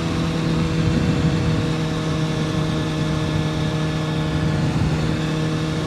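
2006 Kawasaki ZX-6R 636's inline-four engine running at a steady speed while riding, its engine note holding one even pitch under wind noise on the microphone.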